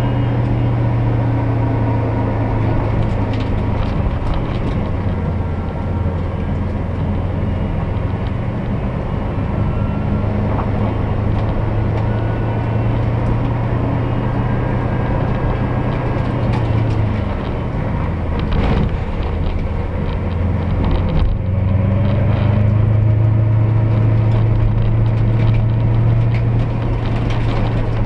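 Toyota 1UZ-FE V8 engine of a Ford Sierra 4x4 rally car heard from inside the cabin, running steadily under way. The revs drop off about 17 seconds in, the engine note briefly cuts out around 21 seconds, then it pulls again louder from about 22 seconds.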